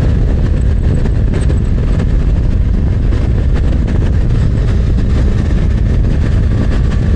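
Steady wind rush and road noise on the microphone of a motorcycle at cruising speed, with the Yamaha MT-09's engine running underneath.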